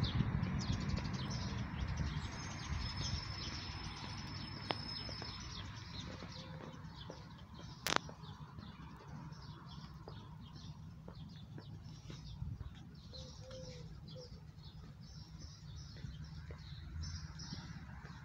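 Small birds chirping over and over in the trees, short high calls scattered throughout, over a low steady background rumble. A single sharp click about eight seconds in.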